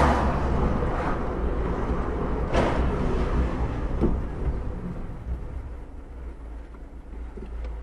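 Steady road and engine noise of a moving car heard from inside, with a deep rumble throughout. There are two brief swells of noise, one at the start and another about two and a half seconds in, and the noise eases off toward the end.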